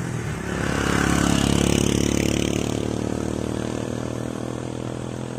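A motor vehicle's engine passing close by on the road. It grows to its loudest about a second and a half in and then fades away.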